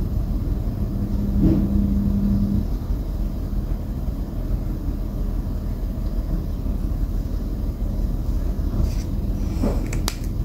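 Steady low rumble of background noise, with a short hum in the first two seconds and a few faint clicks near the end.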